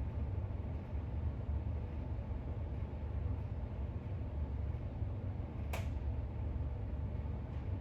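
A steady low rumble of room noise, with one short swish about six seconds in: a book page being turned.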